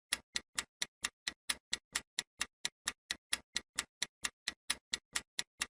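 Countdown timer sound effect: a clock ticking evenly and quickly, about five ticks a second.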